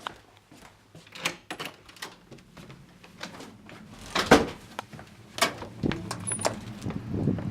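A door and keys being handled: scattered clicks and rattles, with louder knocks about four and five and a half seconds in. A low steady rumble comes in near the end.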